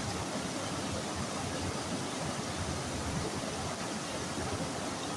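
Rushing floodwater: a steady, even rush of flowing water.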